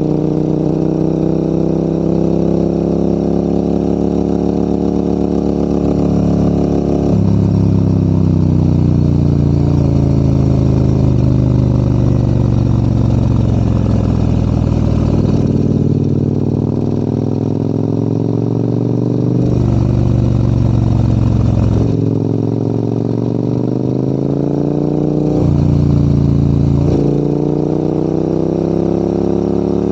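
Motorcycle engine pulling a climb. The revs rise and fall, and the pitch steps sharply several times: gear changes, up and down.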